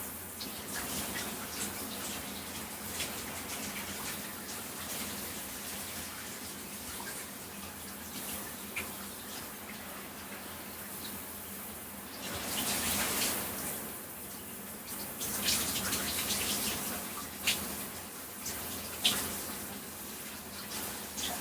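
Shower running with a person under it: a steady spray of water, swelling louder about halfway through and again a few seconds later, with scattered sharp splashes.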